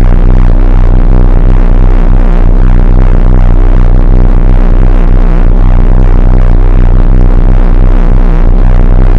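A very loud, low droning tone from a loudspeaker, with a stack of overtones. It pulses and wobbles rapidly and continuously without letting up.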